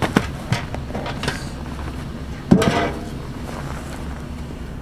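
A few sharp knocks and clatters, then one heavier impact about two and a half seconds in with a brief ringing after it, over a steady low rumble.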